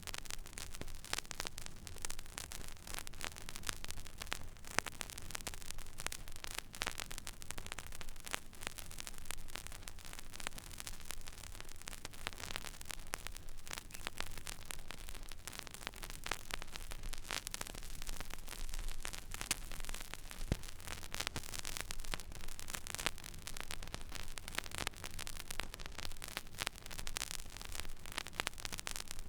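Stylus playing an empty vinyl record groove: steady surface hiss with many scattered crackles and clicks over a low rumble.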